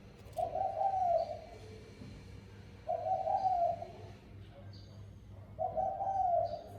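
Spotted dove cooing: three separate phrases about a second long each, spaced two to three seconds apart, with faint high chirps in the background.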